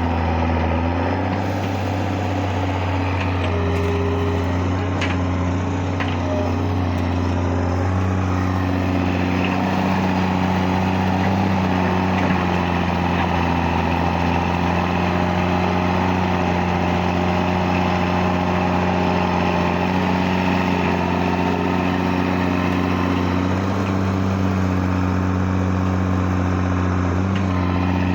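Excavator diesel engine running steadily, its note shifting slightly a few times as the revs change.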